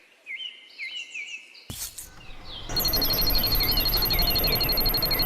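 Small birds chirping: short downward chirps repeated over and over. About two seconds in comes a brief whoosh, and soon after a louder steady high-pitched whine with a low rumble starts under the chirping.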